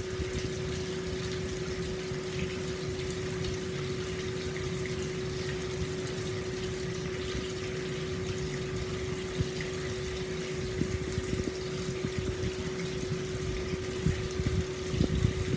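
Hot spring water pouring steadily into an open-air bath, with uneven low splashing and a steady hum underneath.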